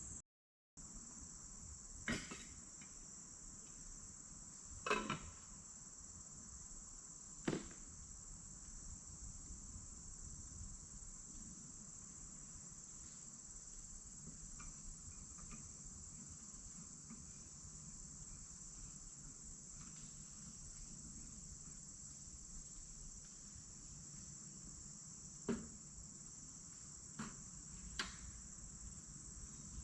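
Steady, faint chorus of crickets, with a few scattered short knocks or clicks.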